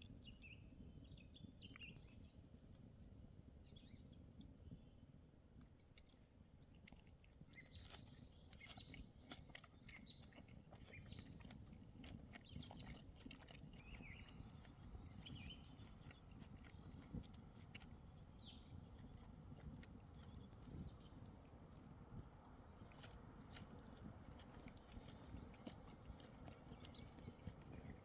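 Faint forest ambience: small birds chirping now and then over a low steady rumble, with many soft scattered clicks.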